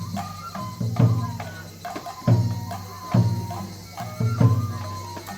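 Japanese festival hayashi music for a lion dance: a taiko drum struck about once a second, under a high bamboo flute melody that holds and slides between notes.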